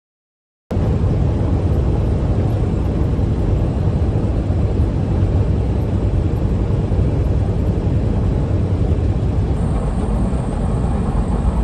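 Semi truck cab noise while driving at highway speed: a steady, loud low engine and road noise that starts abruptly under a second in, after dead silence.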